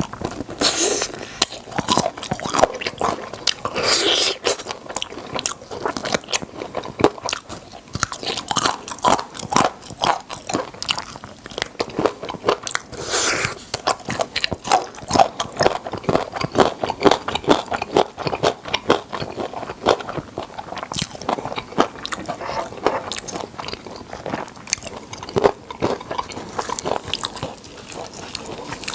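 Close-miked biting and chewing of crispy fried chicken drumsticks with a seasoned crunchy coating, a continuous run of irregular crackly crunches with chewing in between.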